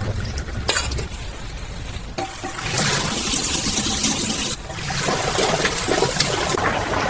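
Water running from a tap, starting about two seconds in, breaking off for a moment about halfway and then running again.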